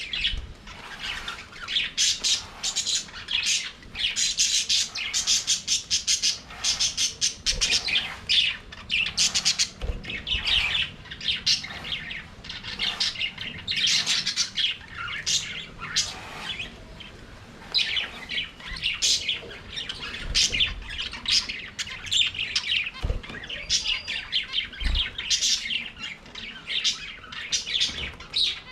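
A flock of budgerigars chattering and warbling, with rapid overlapping chirps and squawks that never let up. A few brief low knocks sound now and then.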